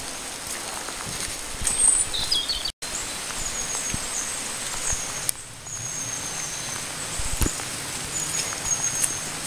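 Steady rain and wind hiss outdoors, with a walker's faint footsteps and a few short high bird chirps. The sound cuts out for an instant about three seconds in.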